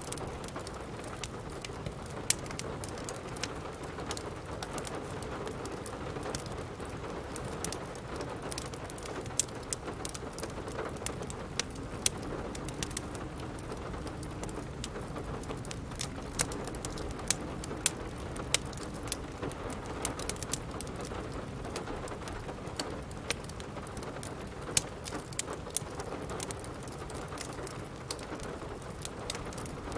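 Steady rain falling, with the sharp crackles and pops of a wood fire scattered irregularly throughout.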